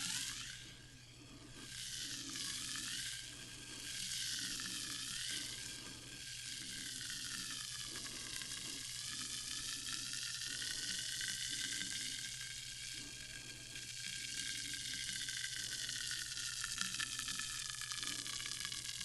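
Sparkling water fizzing: a dense, steady crackle of carbonation bubbles popping at the surface, softer for a moment near the start.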